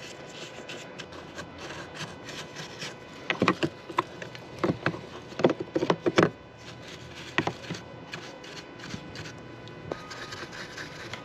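Hand brush scrubbing debris out from under the cover of an Echo CS-590 chainsaw: quick, irregular rubbing strokes, with a few sharper knocks in the middle.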